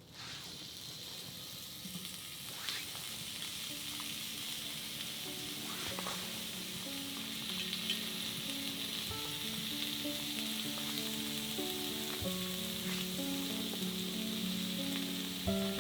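Food frying in a hot pan: a steady sizzle that starts suddenly, with a few pops.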